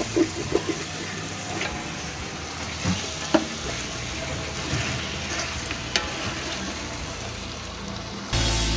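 Chicken and masala frying in oil in a metal pot, sizzling steadily while a wooden spoon stirs and scrapes through it, with scattered knocks of the spoon against the pot and one sharp knock about three seconds in. Music comes in right at the end.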